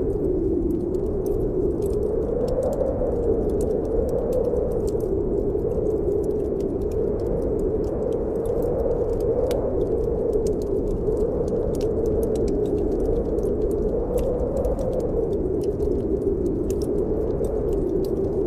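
Snowstorm wind blowing in a steady howl whose pitch slowly wavers up and down, over a wood fire in a fireplace crackling with scattered small pops.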